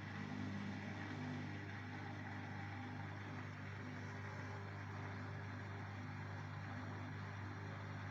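AEG washing machine running with a steady mechanical hum, started on a short cycle right after its clogged drain-pump filter was cleaned. It is working again with the E20 drain error cleared.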